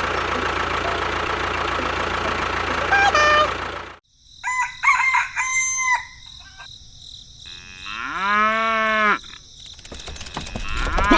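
A motor running steadily, cut off abruptly about four seconds in. Then chickens clucking, followed by two long cow moos, the second near the end.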